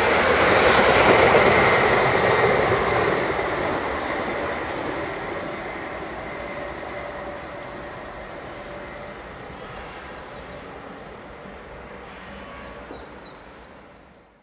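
A train passing close by and then moving away: loudest about a second in, then fading steadily until the sound cuts off.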